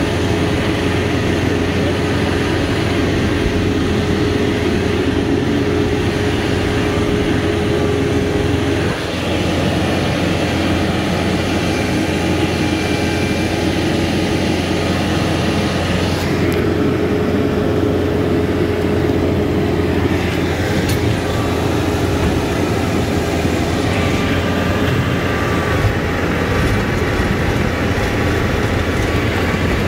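TYM 574 HST tractor's diesel engine running steadily under load while it drives a 6-foot PTO tiller. There is a brief dip in level about nine seconds in.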